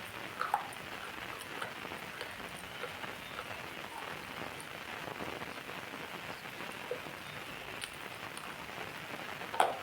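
Steady rain falling, an even hiss dotted with scattered louder drops, with one sharper tap near the end.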